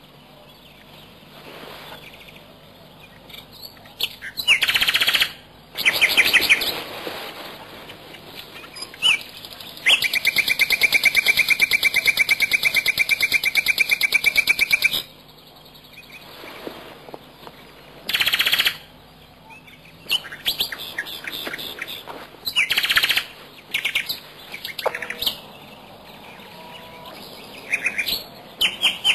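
Bird calls: a scattering of sharp chirping calls, with one long, rapidly repeated call about ten seconds in that lasts some five seconds.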